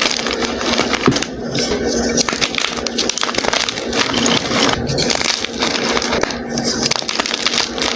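Soft blocks of gym chalk being crushed, a steady soft crumbling with a slight crunch and brief pauses between squeezes.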